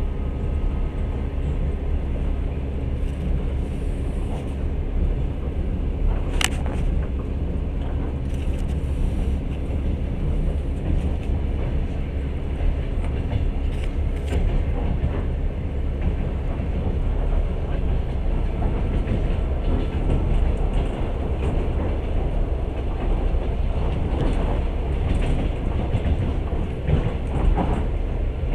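A moving long-distance passenger train, heard from inside the carriage: a steady, mostly low rumble of the wheels on the track, with one sharp click about six seconds in.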